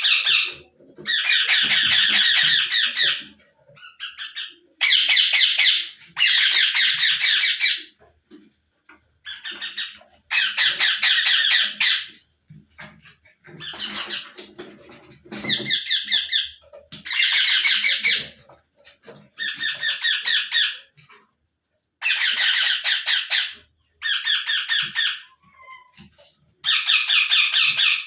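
Indian ringneck parakeet (rose-ringed parakeet) squawking: a dozen or so loud, rapidly pulsing calls, each about one to two seconds long, with short pauses between.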